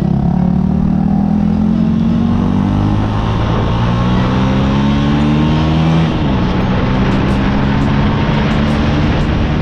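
Yamaha YZF-R125's single-cylinder four-stroke engine pulling under acceleration, its pitch climbing steadily. About six seconds in the pitch drops sharply at an upshift, then it climbs slowly again. A steady rush of wind runs underneath.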